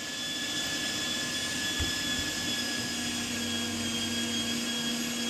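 An electric kitchen appliance's motor running steadily in the background while meat is being prepared, a machine whine with a steady hum that settles in about two seconds in.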